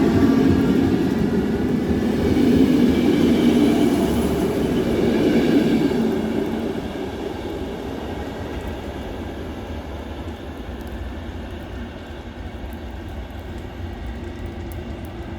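NMBS passenger train pulling away from the platform, its motors whining with a rising pitch over a heavy rumble of wheels. After about six seconds it fades to a quieter, steady rumble as it moves off.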